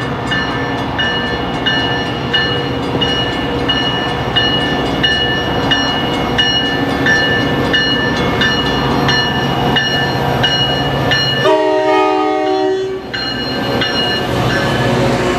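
A grade-crossing bell dings steadily while an MBTA F40PH diesel locomotive and its commuter coaches roll past. Near the end, a short chord from the locomotive's multi-chime horn sounds for about a second and a half.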